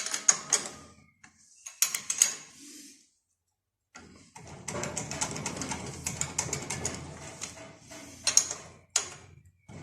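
Metal hand tools and engine parts clinking and clattering during engine repair work, in a few separate bursts of sharp knocks and ticks, then a longer stretch of busy clatter from about halfway through.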